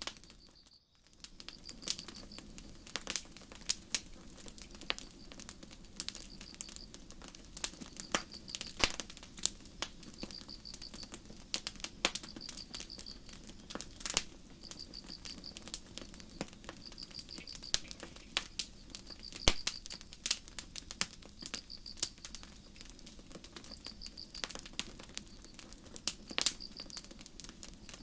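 Campfire crackling, with irregular sharp pops, over crickets chirping in short pulsed trills that repeat about every second and a half. The sound drops out briefly about a second in.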